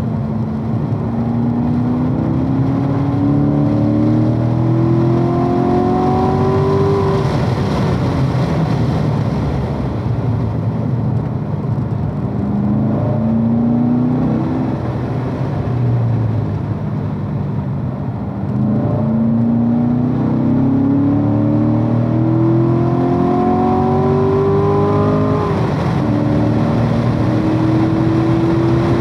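2015 Corvette C7 Stingray Z51's 6.2-litre LT1 V8 heard from inside the cabin, its revs climbing through third gear and easing off twice as the throttle is lifted for corners. Near the end it pulls hard to about 5,000 rpm and drops in pitch on the upshift into fourth of the seven-speed manual, then climbs again.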